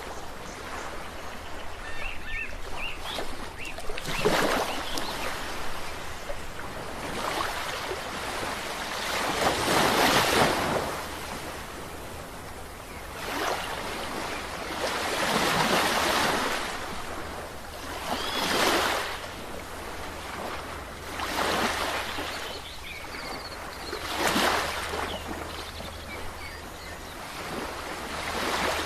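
Sea waves breaking and washing up on a shore, the surf swelling and falling away every few seconds.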